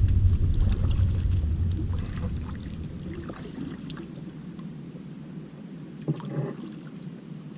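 Kayak on the water: a low rumble fades out over the first three seconds, leaving faint water sounds with a few small knocks and splashes, one about six seconds in.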